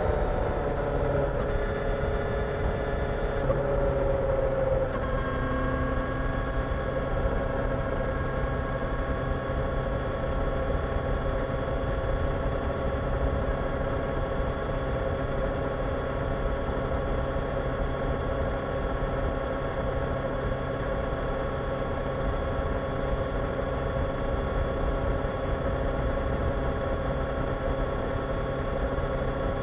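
Kawasaki Ninja 1000SX's inline-four engine dropping in revs over the first few seconds, then settling into a steady, unchanging note.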